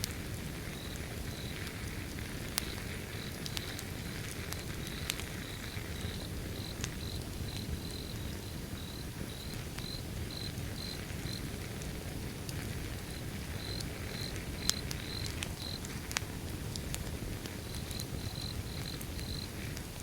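Wood fire burning with a low steady rumble and scattered sharp crackles and pops. A cricket chirps at about two chirps a second, pausing briefly in the middle.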